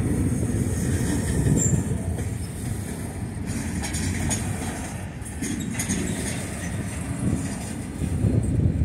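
Freight train of flat cars loaded with trash containers rolling past, a steady low rumble of steel wheels on rail with a few faint clacks.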